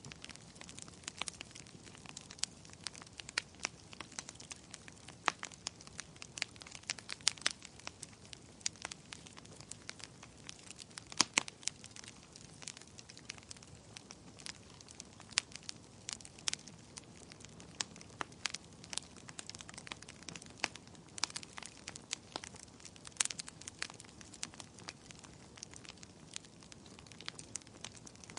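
Wood fire crackling in a fireplace: irregular sharp pops and snaps, several a second and some much louder than others, over a faint low hiss.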